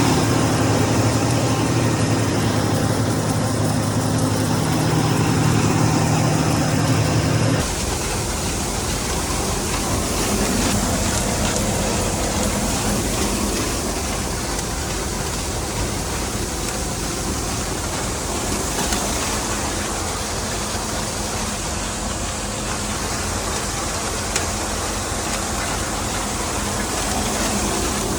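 Tractor engine running steadily. About seven and a half seconds in, the sound cuts abruptly to a noisier, hissier engine sound that continues.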